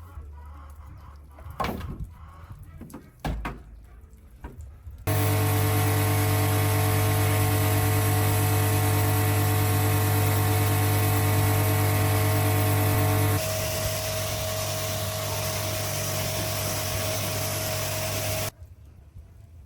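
A few knocks, then a power tool running steadily for about thirteen seconds. Its tone shifts partway through, and it stops abruptly.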